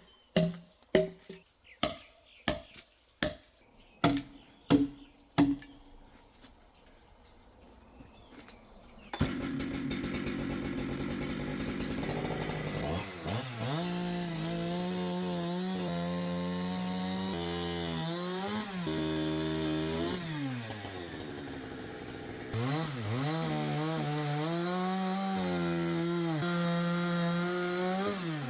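A series of about nine sharp knocks with a short ring, then a two-stroke chainsaw running and revving as it cuts raw logs into lengths for firewood. Its pitch repeatedly sags and climbs back.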